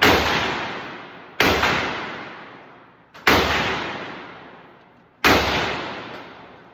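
Four gunshots from a firearm on a shooting range, spaced about one and a half to two seconds apart, each trailing off in a long echo.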